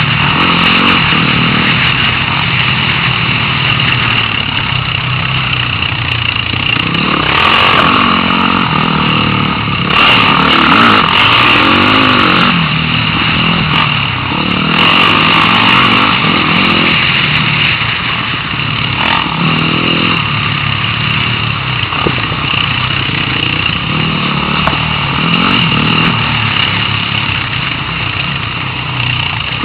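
Dirt bike engine revving up and down over and over, its pitch rising and falling with the throttle.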